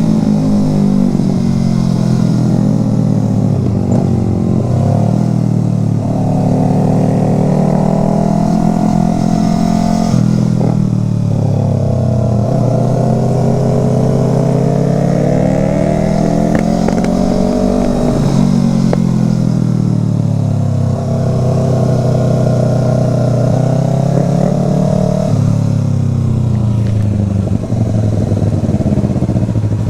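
Motorcycle engine running under way, its pitch climbing for several seconds and then dropping back, about three times, as at gear changes.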